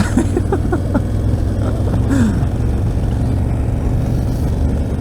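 Adventure motorcycle engine running steadily while riding. A few brief pitched cries come in the first second, and one falling cry about two seconds in.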